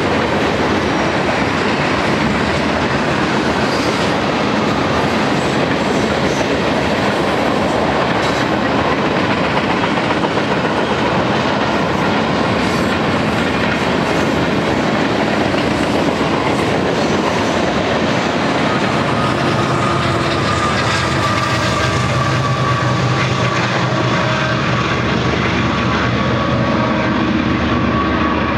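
Freight cars of a BNSF manifest train rolling past close by: a steady, loud rumble and rattle of steel wheels on the rails. A steady whine in several tones joins in about two-thirds of the way through.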